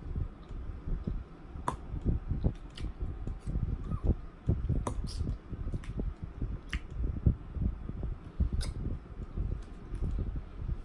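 Close-up chewing of crunchy salad, with moist mouth sounds, and a metal fork clicking and scraping against a glass bowl several times.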